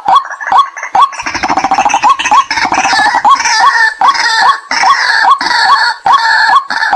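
White-breasted waterhen calls played as a lure: a steady series of sharp, clipped call notes, about two and a half a second. About a second in, a dense, rapid chattering of calls joins over them and runs until near the end.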